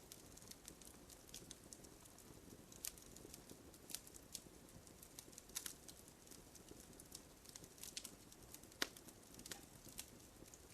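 Wood campfire crackling: irregular small pops and snaps over a soft low rumble of burning, with one sharper pop near the end.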